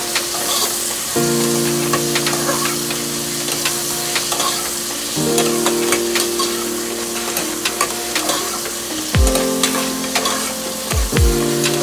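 Tomatoes and other vegetables sizzling as they sauté in a stainless steel pot, stirred with a metal spoon that clicks against the pot. Background music plays over it: held chords that change every few seconds and a few deep falling bass notes near the end.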